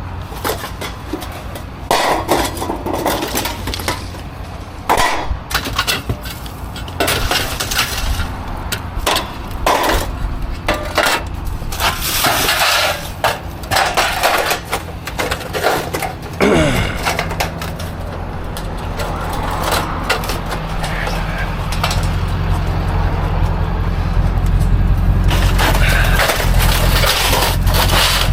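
Scrap junk being handled and thrown about: irregular clattering, bangs and cracks of debris, over a steady vehicle engine idling, which grows louder over the last several seconds.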